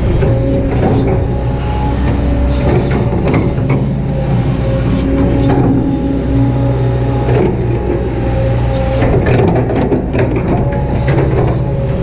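Kobelco SK200-8 hydraulic excavator working: its diesel engine and hydraulic pumps run steadily, the drone shifting a little in pitch as the controls are worked, with scattered knocks and scraping from the machine at work, more of them near the end.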